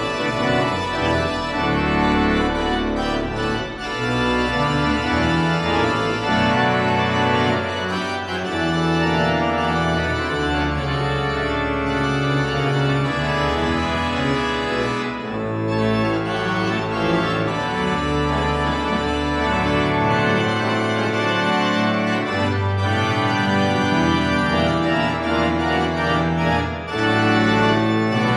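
Church organ playing sustained, changing chords over a strong bass line: the postlude after the benediction.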